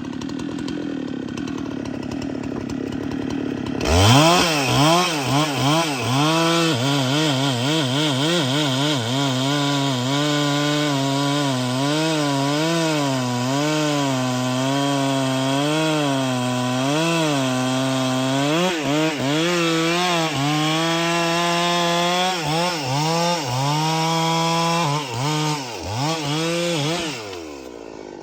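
Chainsaw idling, then opened up to full throttle about four seconds in and cutting into a tree for over twenty seconds, its pitch dipping and recovering as the chain bites the wood. It drops back to idle near the end.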